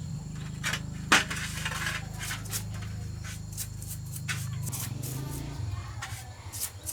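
A low, steady machine hum with metal clinking and scraping over it, and one sharp metallic knock about a second in; the hum changes about five and a half seconds in.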